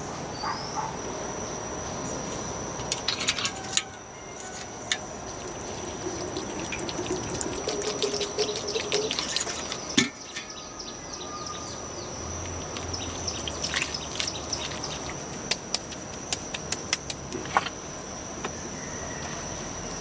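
Insects chirring in one steady high note, with scattered sharp clicks and taps from handwork and one louder knock about halfway through.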